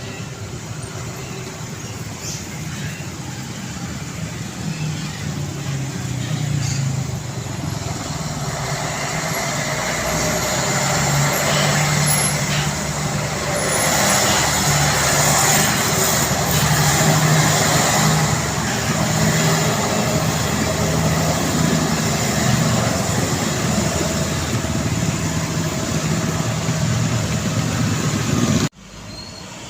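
Heavy truck's engine running, growing louder over the first half as it draws near, then holding steady; the sound cuts off abruptly about a second before the end.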